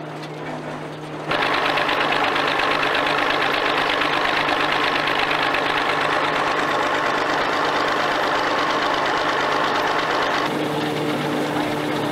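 Belt-driven threshing mill at work, a dense, fast mechanical rattle over a steady machine hum. It gets suddenly louder about a second in and eases back near the end.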